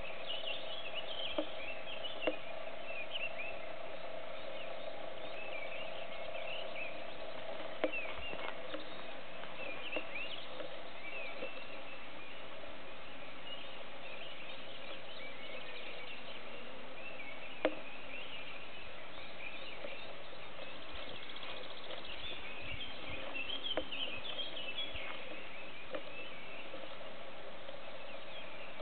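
Small birds singing in many short, quick chirps, with a few sharp clicks.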